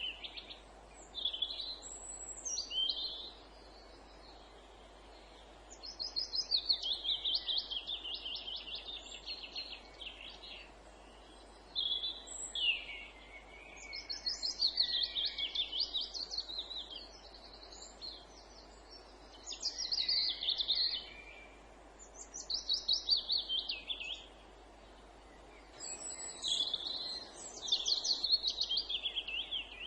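Songbirds singing in woodland: a run of song phrases, each a fast series of repeated high notes, some dropping in pitch toward the end, with short pauses between them. A steady low background hiss runs underneath.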